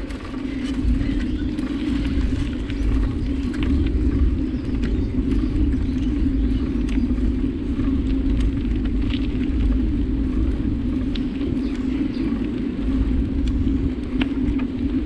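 Steady riding noise from a camera on a moving bike: low wind rumble and a constant hum, with scattered small rattles and clicks.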